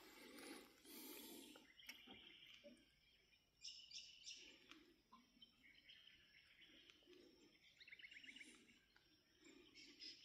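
Faint birds calling: scattered chirps and short whistles, with a quick trill about eight seconds in.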